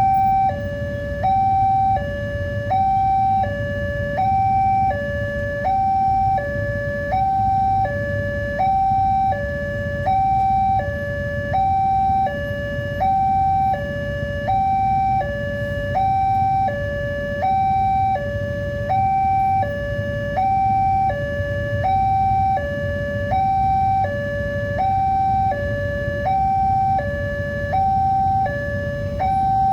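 Electronic warning alarm of an Indonesian railway level crossing sounding continuously: a high tone and a lower tone alternating evenly, one high-low cycle about every second and a half, warning that a train is approaching. A steady low rumble runs underneath.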